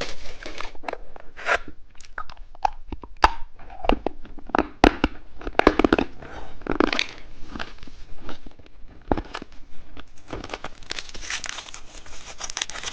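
Plastic candy wrapper being handled, torn and crinkled, with many sharp irregular crackles and rustling.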